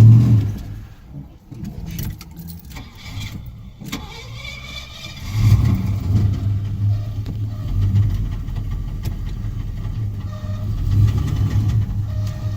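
Lifted truck's engine running, quieter at first with a few knocks and clicks, then working harder from about five seconds in as a steady low rumble.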